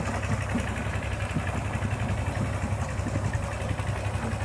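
An engine running steadily at low revs: a continuous low, even hum.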